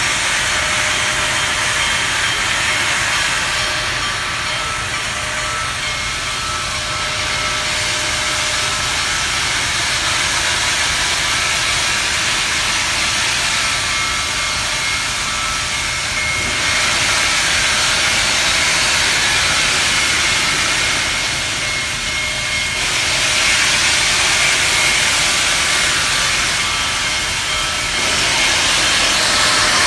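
Union Pacific Big Boy steam locomotive hissing steam steadily as the train pulls out, with faint high whining tones over the hiss. The sound swells a few times.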